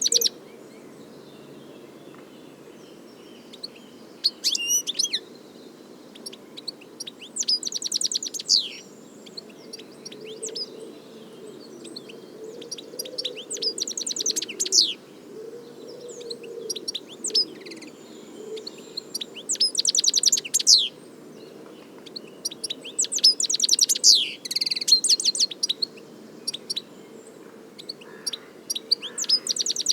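European goldfinch singing: bursts of rapid, high-pitched twittering phrases a second or two long, with short pauses between them, over a steady low background noise.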